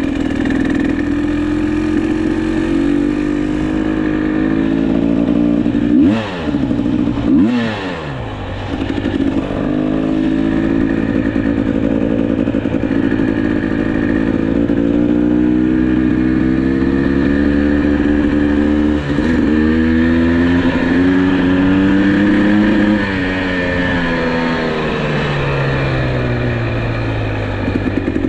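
GasGas EC300 two-stroke enduro motorcycle engine running while riding, its pitch rising and falling with the throttle. There are two quick revs about six and seven seconds in, and the revs drop away near the end.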